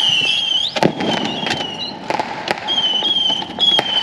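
Fireworks going off: high, wavering whistles that come and go, with sharp bangs and pops scattered among them.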